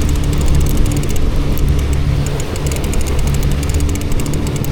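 Boat motor running at a steady speed, a continuous low drone, with wind and water hiss over it.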